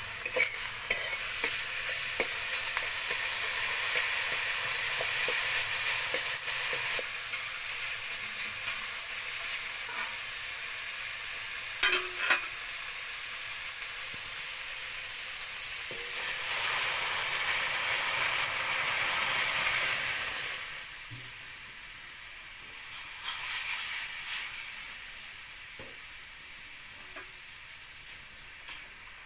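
Food frying and sizzling in a pan while being stirred, with sharp clicks of the stirring utensil against the pan. The sizzle swells for a few seconds about two-thirds of the way through, then falls to a fainter hiss.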